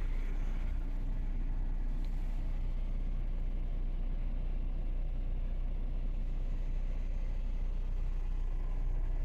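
Hyundai i20 diesel engine idling, heard from inside the cabin as a steady low rumble.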